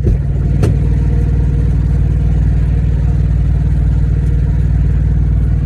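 Truck engine idling steadily, a loud low drone, with two sharp knocks near the start.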